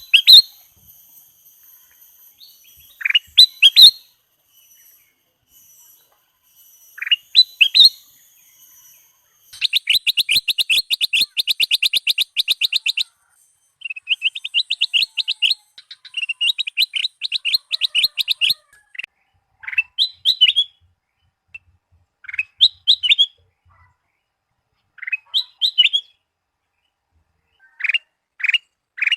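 Recorded song of a kutilang emas, a bulbul: short clear whistled phrases, with two long runs of rapid repeated chattering notes, about eight a second, in the middle, then single phrases every two or three seconds.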